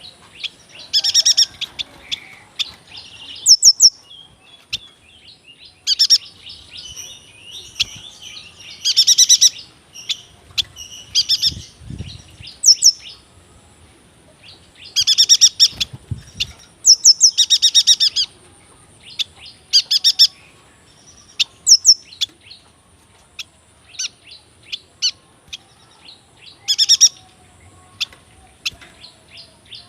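Yuhina singing: loud, ringing phrases of about a second repeated every two to three seconds, with quick short chirps in between. A faint steady high hiss runs underneath, and two brief low rumbles come near the middle.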